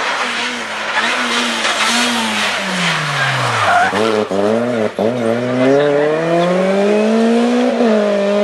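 Rally car engine on a special stage. Its revs fall as it slows into a corner, with two brief sharp breaks around four and five seconds in. The revs then climb steadily as it accelerates away, and the pitch drops with a gear change near the end.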